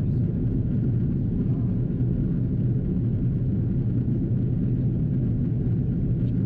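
Steady low rumble inside the cabin of a Swiss Airbus A330-343 in descent: engine noise from its Rolls-Royce Trent 700s and air rushing past the fuselage.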